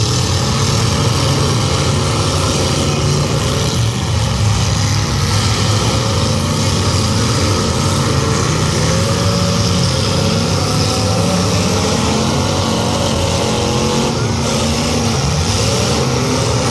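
Several demolition derby cars' engines revving together, their pitch rising and falling continuously as the cars accelerate and back off in the arena.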